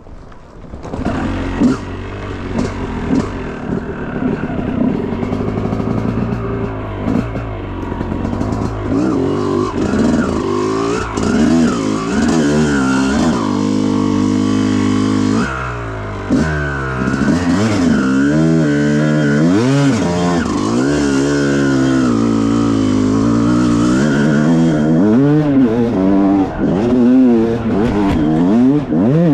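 Dirt bike engine being ridden hard, coming in loud about a second in and revving up and down over and over, with a steadier stretch in the middle.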